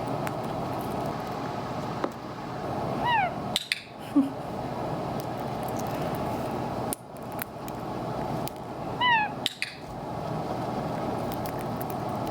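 Indian ringneck parrot giving two short, soft calls that slide down in pitch, about six seconds apart, over steady background noise. This is the quiet 'meh' call he is being trained to make instead of his alarm call.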